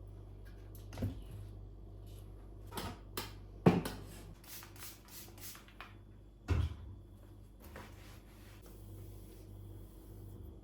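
Household objects being handled and set down: scattered knocks and clicks, the loudest two about a third of the way in and just past halfway, over a low steady hum.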